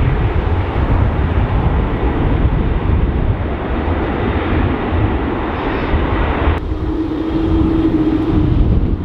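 Jet airliner engine noise mixed with heavy wind buffeting the microphone. About six and a half seconds in, the sound changes abruptly to a duller rumble with a steady hum.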